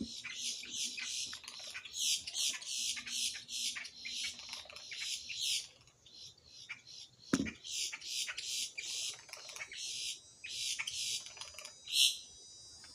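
Birds calling in a rapid run of short, high, squeaky notes that pauses briefly about six seconds in, then resumes, with one clearer held note near the end. A single soft bump sounds about seven seconds in.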